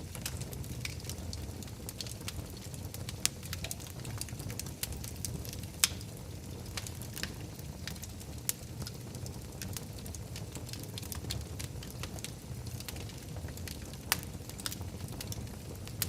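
Wood fire burning in a fireplace: a steady low rumble with irregular crackles and a few sharper pops.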